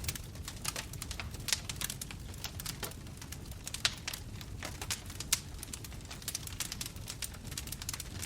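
Bonfire crackling: a steady low rumble of flames under irregular snaps and pops of burning wood, with a few louder pops.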